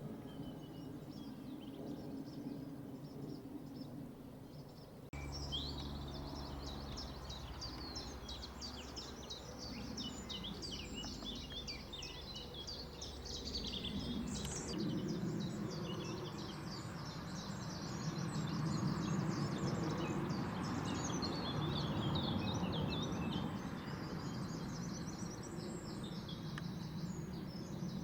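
Many small birds singing and chirping in a continuous, busy chorus over a steady low rumble of outdoor background noise. The birdsong becomes much fuller about five seconds in.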